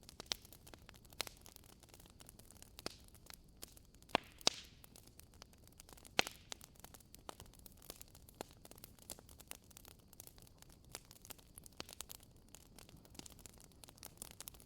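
Wood fire crackling in a fireplace: irregular sharp pops and snaps over a faint hiss, with the loudest pops about four and six seconds in.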